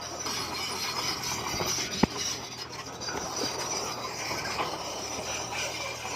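Komatsu bulldozer working, its engine running steadily under a dense clanking and scraping of steel tracks and stone, with one sharp knock about two seconds in.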